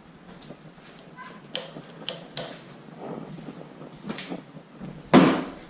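Metal hand tools clinking against the bike: a few sharp clicks, then a louder clatter about five seconds in.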